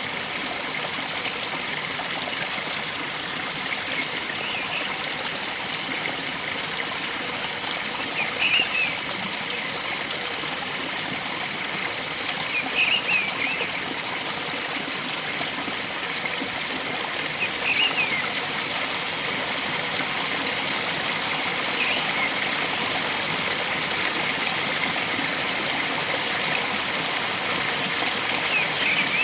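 Steady rush of a flowing stream, with a bird giving short chirps every few seconds.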